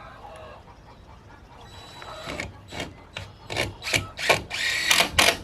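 A power drill driving a screw in a short burst near the end, after a few short knocks and clatters of handling.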